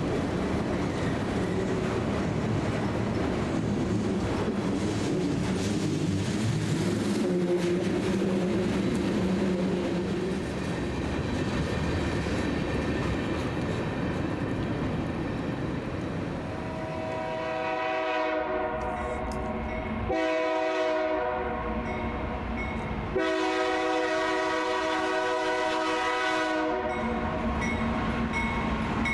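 A train passing with a steady rumble of wheels and rolling stock. A bit past halfway a diesel locomotive's multi-chime air horn sounds three long blasts.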